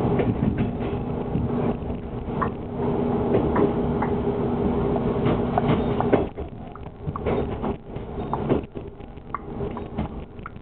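Diesel railcar heard from inside the car: a steady engine hum with wheels clicking over the rail joints. About six seconds in the engine note drops away and the running grows quieter as the car nears a station.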